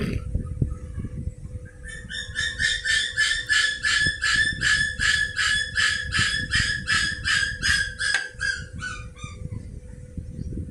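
A bird calling in a rapid, even run of some twenty short, harsh notes, about three a second, for roughly seven seconds before stopping.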